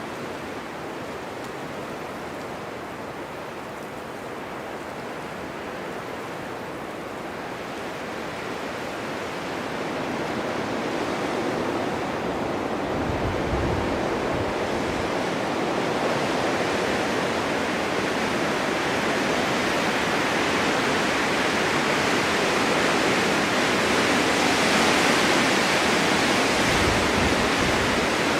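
Blizzard wind blowing snow, a steady rushing that swells into a stronger gust over the second half, with brief low rumbles of wind buffeting the microphone.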